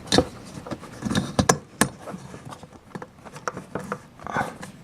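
A metal hose clamp being worked onto a rubber dishwasher hose by hand: irregular sharp clicks and knocks of metal and plastic, with rubbing between them.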